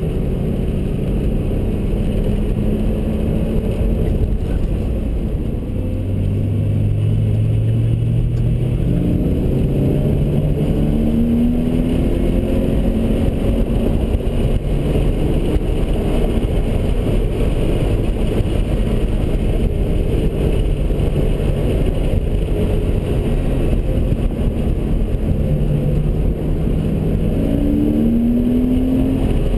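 Car engine heard from inside the cabin at track speed over heavy road and wind noise. The engine pitch climbs in steps through the gears after about six seconds, and climbs again near the end.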